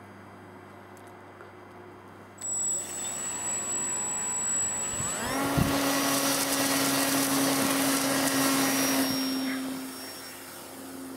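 Electric motor and propeller of a ParkZone F4U Corsair RC plane spinning up: a thin high whine starts suddenly about two seconds in, then the pitch rises sharply about five seconds in to a loud, steady full-throttle drone, which drops in level near the end.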